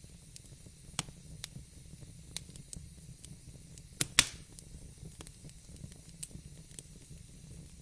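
Wood fire crackling in a fireplace: scattered sharp pops and snaps over a low steady rumble and soft hiss, with two loud snaps close together about four seconds in.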